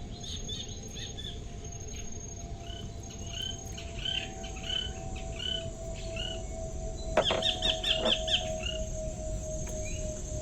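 Outdoor nature ambience: insects trill steadily while a bird calls with repeated short chirps. About seven seconds in, a quick rattling run of chirps is heard.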